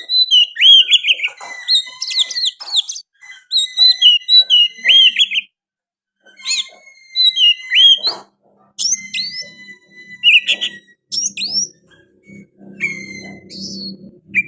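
Oriental magpie-robin (kacer) singing loud, varied whistled phrases of quick slurs and trills, with mimicked sooty-headed bulbul (kutilang) notes in its song. The song breaks off briefly about five and a half seconds in, then resumes.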